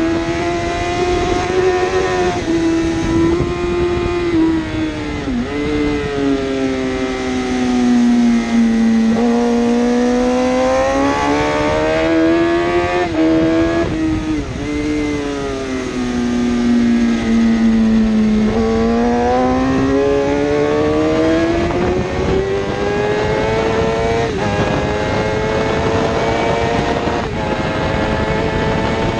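A 1000cc superbike engine running hard at high revs, its note falling and rising with throttle and speed. Several quick drops and recoveries in pitch mark gear changes.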